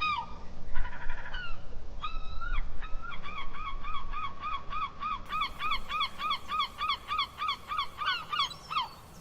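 Seagull calling: a few separate yelping calls, then from about three seconds in a fast, even series of about three calls a second, like a gull's long call.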